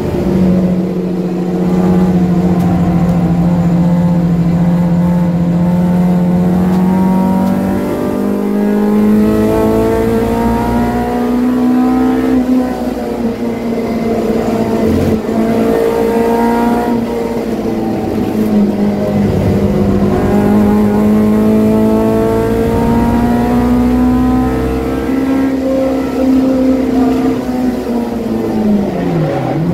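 A Honda K20A2 2.0-litre four-cylinder engine in a 1995 Civic EG, driven hard around a race track and heard from inside the cabin. It holds high revs, climbing in pitch and dropping sharply several times as it changes gear, then falls away under braking near the end before picking up again.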